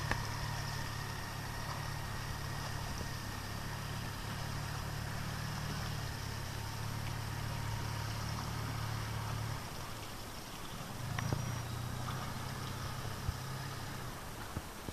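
Small river ferry boat's engine running steadily with a low hum. It drops away about ten seconds in and comes back a second later.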